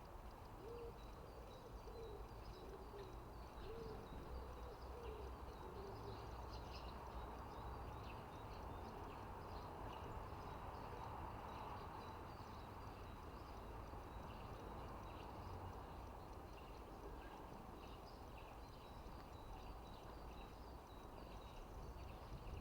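Outdoor birdsong, faint: short high bird chirps scattered throughout, and a low wavering hooting call repeated a few times in the first few seconds, over a steady low rumble.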